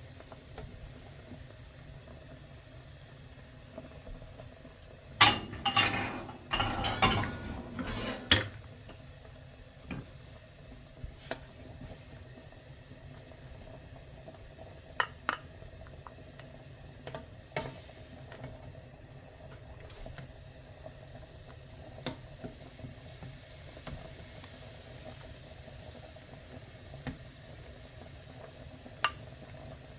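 Dishes and utensils clattering in a kitchen: a burst of clinking and knocking about five seconds in, then occasional single clinks, over a steady low hum.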